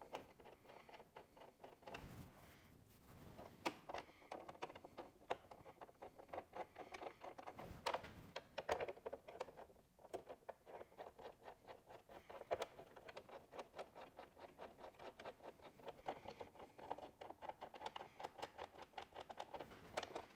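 Faint, rapid small clicking and scraping of hand tools and bolts as the bolts are started into the tab nuts of a tailgate pass-through, with a few louder clicks.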